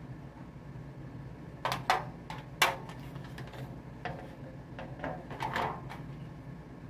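Scattered sharp clicks and knocks of hand work as a screw is driven into a wooden frame, the loudest a few strikes between about one and a half and three seconds in and a cluster near the end.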